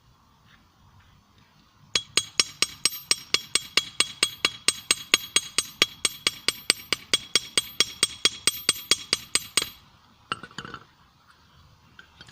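Hammer blows on a small 25 lb steel anvil, forging a hot screw flat into a blade: a fast, even run of about five ringing strikes a second that starts about two seconds in and stops near ten seconds in.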